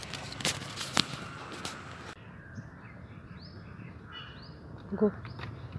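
Small birds chirping in the background, short high sliding calls in the second half. In the first two seconds, a few sharp clicks of a phone being handled.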